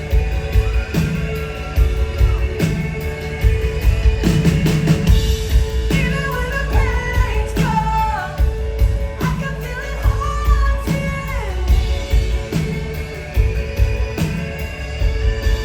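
Live band music with a steady drum beat and bass, and a melody that bends and glides over it in the middle stretch.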